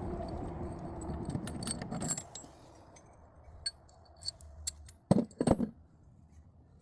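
Metal parts and tools rattling and clinking for about two seconds, then a few light clicks and two heavy knocks a little after five seconds in.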